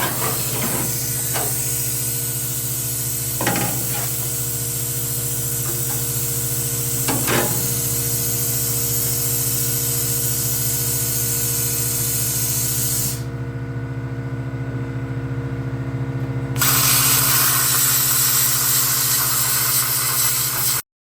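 Plasma cutter cutting out rusted sheet steel: a steady hiss of air and arc over an electrical hum, with a few clicks in the first eight seconds. The hiss drops out for about three seconds after the middle, comes back louder, then stops abruptly just before the end.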